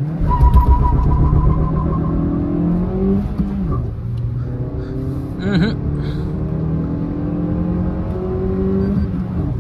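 Maruti Suzuki Fronx's 1.2-litre four-cylinder petrol engine heard from inside the cabin under hard acceleration. Its note climbs through the revs and drops back at gear changes, about three seconds in and again about five and a half seconds in, then climbs again.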